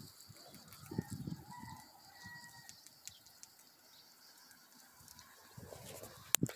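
A faint, drawn-out bird call lasting over a second, starting about a second in, over quiet open-air background; a single sharp knock near the end.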